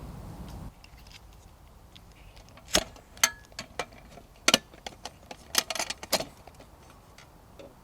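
A string of sharp clinks and knocks, about a dozen over four seconds, the loudest bunched near the middle, like hard objects being handled and set down. A low rumble cuts off shortly before them.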